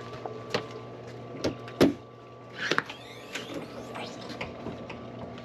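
Handling noises as a boat's cabin door or hatch is opened: several sharp knocks and clicks, the loudest nearly two seconds in, then a rustle and a brief sliding scrape, over a steady low hum.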